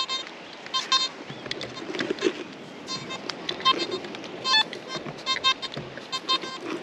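Nokta Makro Simplex metal detector giving short, broken, irregular chattery beeps as the coil sweeps, over a steady background hiss. This is chatter, not a target signal.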